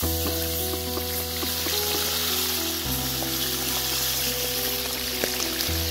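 Hot oil sizzling steadily in a large pot as raw chicken hearts are tipped in, with a few light clicks. Background music of held chords plays underneath and changes chord twice.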